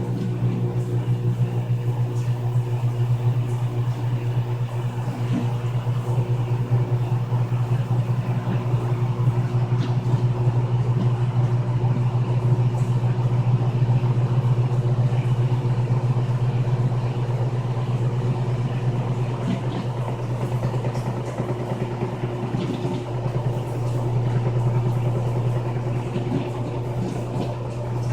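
Frigidaire Gallery Series top-loading washing machine running: a steady, low motor-and-drive drone with a rapid fine pulsing, holding level throughout.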